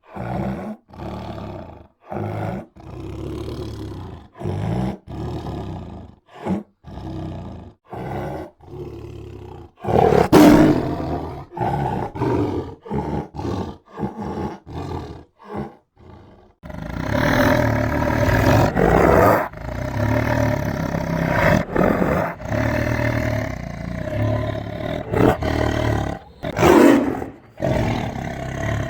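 A tiger roaring: a string of short roars separated by brief pauses, then, a little past halfway, a longer, nearly unbroken run of loud roaring.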